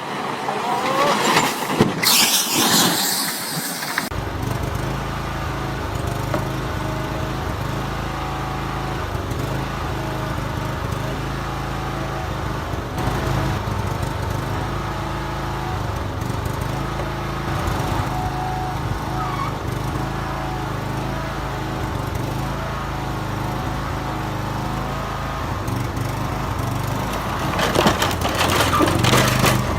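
A vehicle engine running steadily, after a few seconds of noisy bursts at the start; near the end the noise swells louder.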